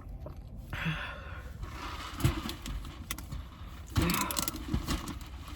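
Steady low rumble of a car interior, with paper or wrapper rustling and a couple of knocks about two and four seconds in.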